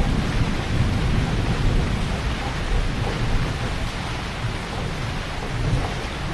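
Heavy rain falling steadily, a dense hiss over a deep low rumble that eases a little about two thirds of the way through.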